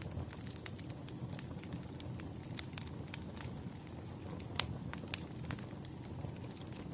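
Wood fire crackling: a steady low rumble of burning logs with irregular sharp pops and snaps, the loudest about two-thirds of the way through.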